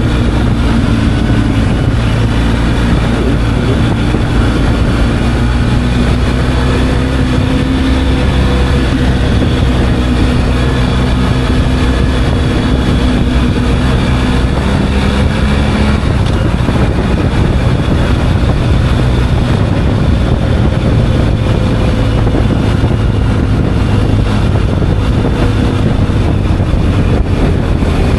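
Motorcycle engine running steadily while riding, its pitch drifting a little, with its note changing about halfway through, under a constant rush of noise.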